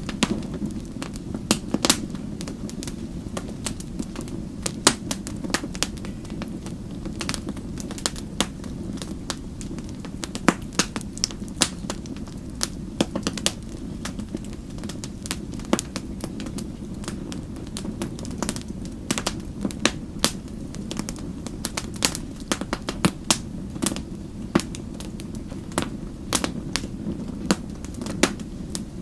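Wood fire crackling: a steady low rumble of the flames with frequent, irregular sharp pops and snaps.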